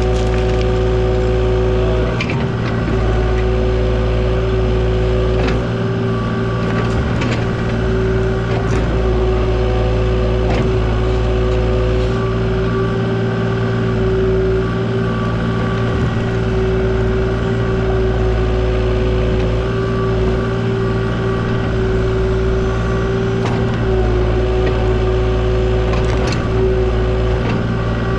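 Mini excavator's diesel engine running steadily at working speed, with a steady hydraulic whine and a few scattered knocks as the machine works.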